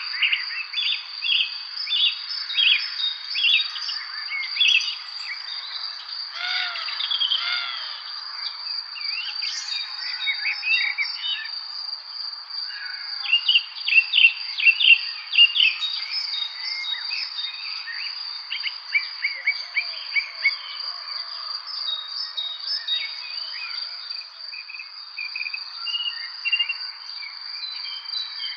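Several songbirds chirping and singing in quick, overlapping phrases, busiest about halfway through, over a steady high insect trill.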